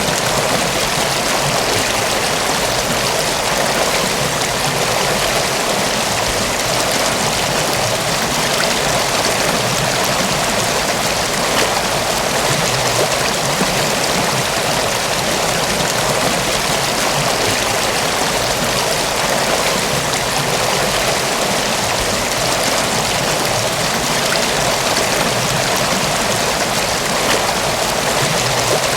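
River water flowing over rocks: a steady, even rush and babble of running water.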